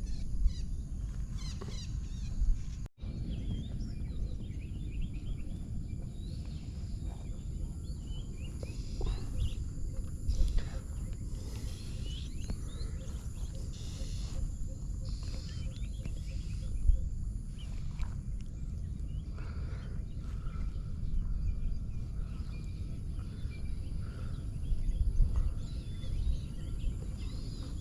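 Wild birds calling with many short chirps and whistles over a steady low rumble.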